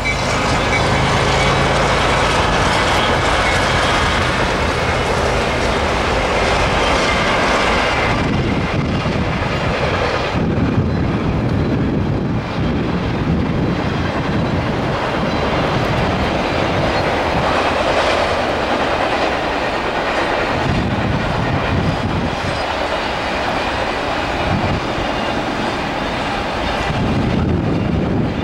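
CSX diesel freight train passing close by: for the first eight seconds a steady diesel engine drone runs under the rolling noise, then a long string of freight cars rolls past with wheels clattering on the rails.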